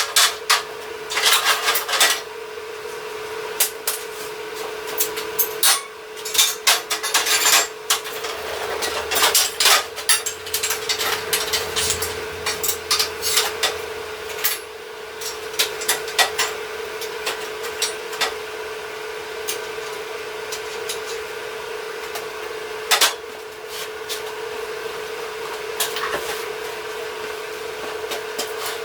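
Hand work on steel parts: irregular metallic clanks, taps and knocks of tools and pieces being handled, some in quick clusters, over a steady machine hum.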